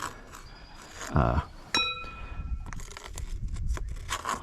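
Metal striking metal, tools clinking. One sharp clink about halfway through rings on for about a second, followed by small scattered clicks and scrapes.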